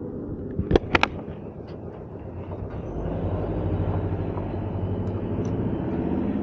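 Motorcycle engine running steadily at low revs, growing louder from about three seconds in, after two sharp clicks about a second in.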